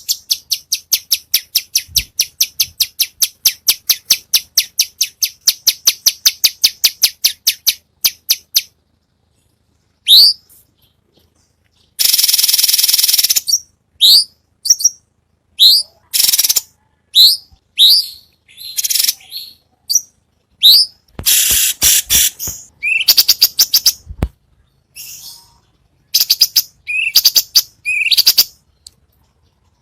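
Songbird singing: a fast, even series of high notes at about five a second for the first eight seconds, then a run of sharp upward-sweeping whistles broken up by a few dense twittering phrases.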